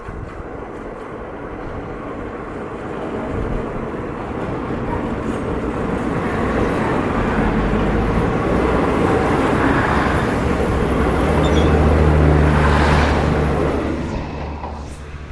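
A diesel train passing close by on the railway line: the noise of the train builds steadily for about twelve seconds, with a low engine drone loudest near the end, then fades as it goes by.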